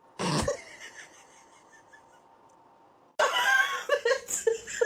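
A short, sudden sound just after the start, then a quiet stretch. About three seconds in, a person starts laughing in short, repeated pulses.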